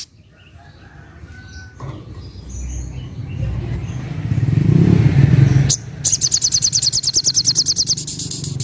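A low vehicle rumble builds up and is loudest about five seconds in, with faint scattered bird chirps over it. It breaks off abruptly, and a rapid high trill of about ten notes a second starts, the song of a sogok ontong (little spiderhunter).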